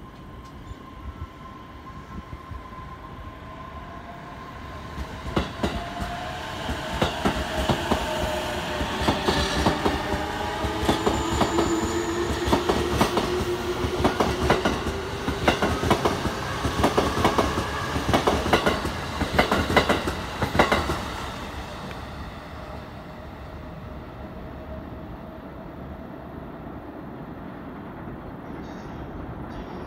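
JR East E233-series electric trains on the move: the motor whine of a departing train rises steadily in pitch as it accelerates, with wheels clacking over rail joints. It is loudest from about five seconds in to about twenty-one seconds, then falls back to a steadier, quieter rumble as the train runs off.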